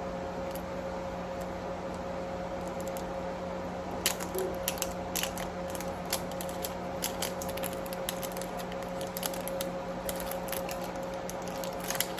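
Scattered small clicks and crinkles of the plastic wrapping on an L.O.L. Surprise pet ball being handled and peeled, thicker from about a third of the way in, over a steady low hum.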